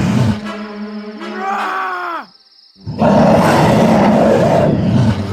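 Cartoon character vocal effects, wordless groans and grunts, over background music. A drawn-out vocal slides down in pitch near the middle and breaks off in a short pause, then a loud, rough, growling outburst follows.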